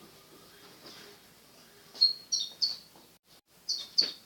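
Small birds chirping: short high chirps in two quick clusters, one about two seconds in and another near the end.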